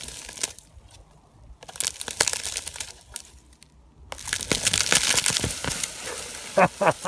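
Mountain mahogany bush being ripped out of the ground by a tow strap: crackling and snapping of roots and branches tearing loose, in bursts with two short lulls, then continuous crackling as it drags through the brush from about four seconds in.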